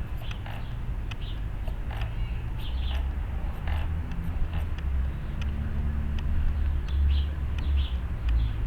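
RC helicopter's rotor blades running in a hover, a steady low thrumming that grows louder about three seconds in, with birds chirping now and then.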